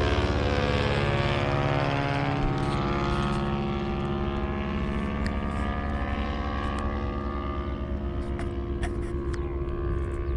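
Small propeller floatplane flying past, its engine drone dipping in pitch early on and then slowly fading as it moves away.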